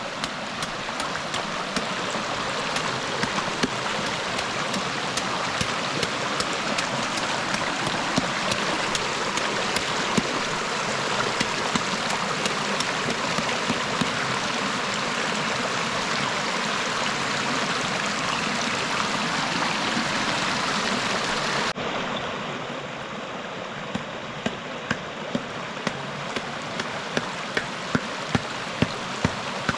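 Steady rushing water with scattered drips ticking through it. About three-quarters of the way in it changes abruptly to a softer wash with sharper, separate drop ticks.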